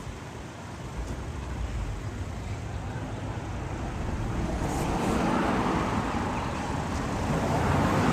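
Road traffic noise: a motor vehicle passing, getting louder from about halfway through.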